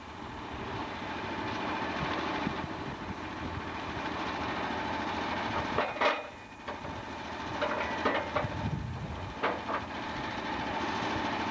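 Sawmill running, a steady machine noise with a few sharp knocks, one about halfway through and several more shortly after.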